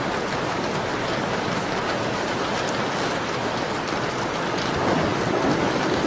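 Steady rain on a window pane: an even hiss with faint scattered ticks of drops. A low swell comes in about five seconds in.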